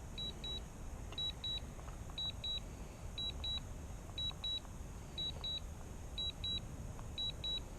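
Drone remote controller beeping two short high beeps about once a second, its low-battery warning, over a faint steady hiss.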